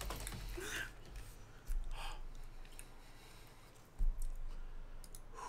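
Soft chewing and mouth clicks from someone eating a chocolate snack, with a short "mm" about half a second in, a breath about two seconds in and a low thump about four seconds in.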